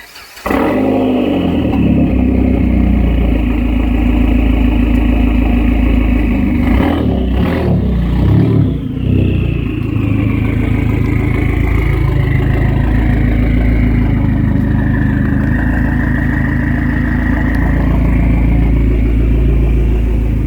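The turbocharged 2.4-litre four-cylinder of a 2004 Dodge Neon SRT-4 running loud through a newly installed exhaust. It cuts in suddenly about half a second in and holds a steady, low idle, with a brief rise and fall in the engine note about seven to nine seconds in.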